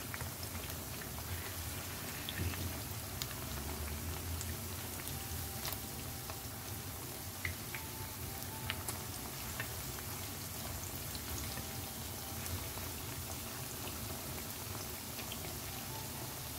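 Batter-coated tempeh slices frying in hot oil in a pan: a steady sizzling hiss with scattered pops and crackles.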